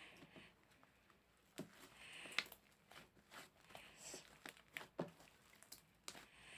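Hands playing with white and pink slime: faint, irregular sticky clicks and pops with short crinkly rustles.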